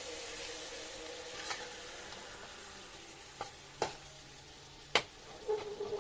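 Kitchen cooking sounds: a steady hiss from the pan that fades slowly, with a few sharp clinks of a utensil against cookware, the loudest about five seconds in.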